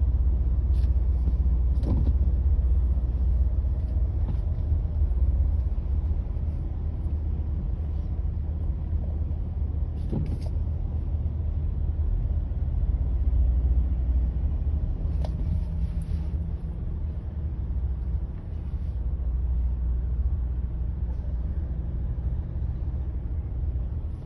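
Steady low rumble of a motor vehicle's engine and road noise, with a few brief clicks or knocks scattered through it.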